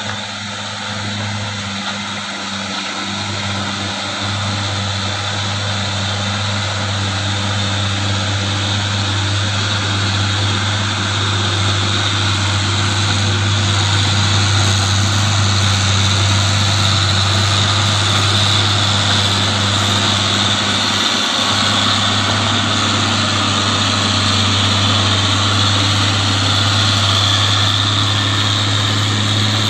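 Mitsubishi Canter light truck's diesel engine running steadily under heavy load on a steep climb, growing louder over the first dozen seconds and then holding.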